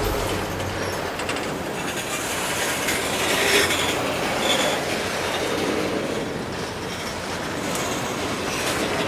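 Freight train rolling past, with the steady noise of its wheels on the rails and a brief louder, higher patch about three and a half seconds in.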